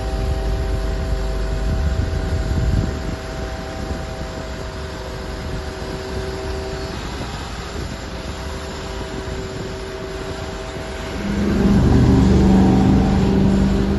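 A car engine running with a steady drone, growing louder about eleven seconds in.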